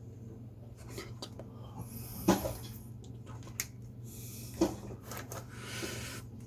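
Drawing on paper: three short spells of scratchy rubbing on the sheet, with a few sharp knocks of the pencil or tools on the desk, the loudest about two seconds in, over a steady low hum.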